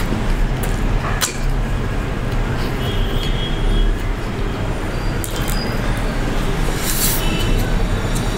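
Steady low rumble, with a few sharp crunches and clicks from a chicken burger being bitten and chewed close to the microphone.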